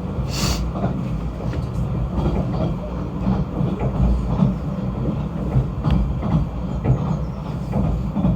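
Snowdon Mountain Railway rack train running steadily: a continuous low rumble with scattered clanks and knocks, and a short hiss about half a second in.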